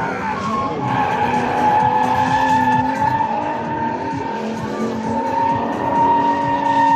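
Drifting cars' tyres squealing continuously in long, slowly wavering screeches over revving engines.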